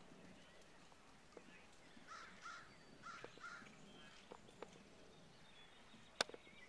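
Faint, harsh bird calls, four in quick succession in two pairs about two to three and a half seconds in, over a near-silent outdoor background. A few sharp clicks come through as well, the loudest a single click near the end.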